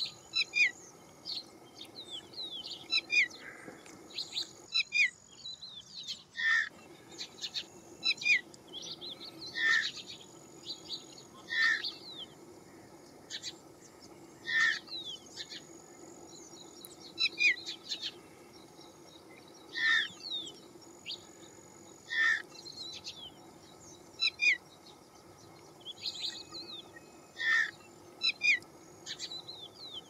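Small songbird calls: short, sharp, down-slurred notes repeated about every two seconds, with thin high whistled notes between them, over a faint steady low hum.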